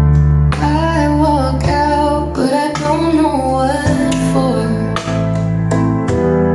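Recorded song played back through PSB Image B5 bookshelf speakers: a female voice singing over guitar, keyboard and a strong, steady bass.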